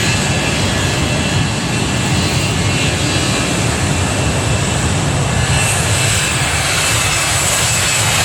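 Airliner taking off, its engines running loud and steady: a deep rumble with a high whine over it.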